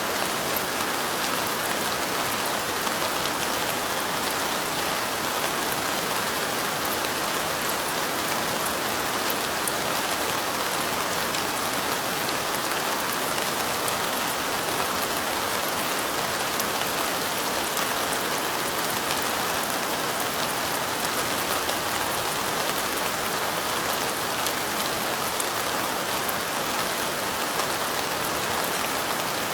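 Steady light rain falling on window glass: an even hiss of rain with many fine drop ticks.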